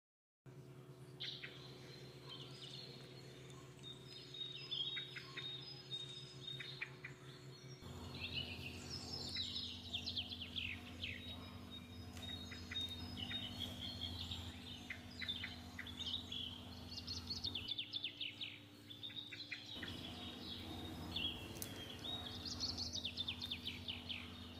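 Birds chirping and trilling in quick descending runs, over a low steady hum that shifts a few times.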